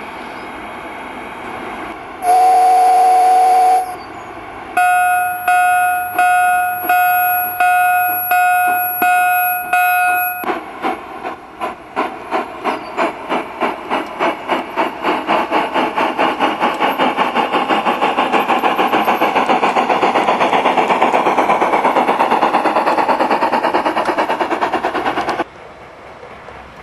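Sound card of an Accucraft K27 Mudhen Gauge 1 model locomotive playing through its small speaker: one American steam whistle blast, then a locomotive bell ringing about seven times as she starts away at slow speed, then steam exhaust chuffs that quicken as the speed rises, and the bell stops. The chuffing cuts off suddenly near the end.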